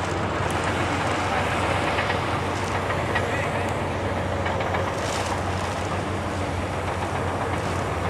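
Steady running noise of machinery: a constant low hum under an even rumble, with no breaks or changes.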